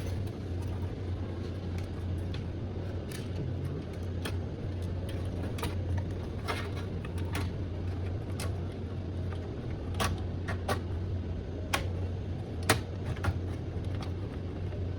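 Scattered light clicks and knocks of a motherboard being set back into a desktop computer case, over a steady low hum, with one sharper knock late on.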